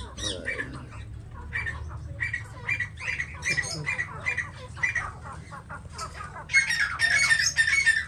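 Caged birds squawking in short, repeated calls, a few a second, which turn louder and denser about six and a half seconds in, over a low steady hum.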